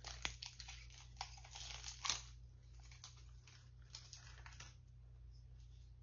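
Small cosmetic packaging being handled: a scatter of light clicks and plastic rustling in the first couple of seconds, a few softer rustles later, then only faint room tone.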